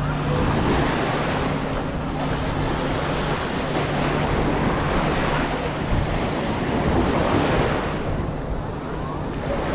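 Small waves washing in and out on a sandy shore, swelling and easing every couple of seconds, with wind buffeting the microphone. A faint steady low hum fades out about halfway through.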